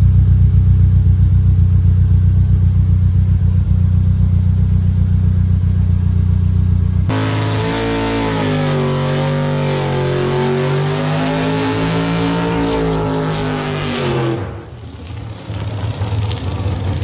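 Car engine running with a steady deep drone, then revving up and down in slow sweeps from about 7 s in; the sound drops away suddenly about 14.5 s in.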